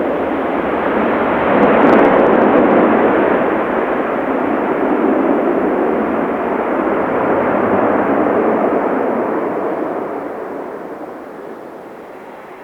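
Loud roar of a landing jet airliner's engines. It swells about two seconds in, holds steady, then fades over the last couple of seconds.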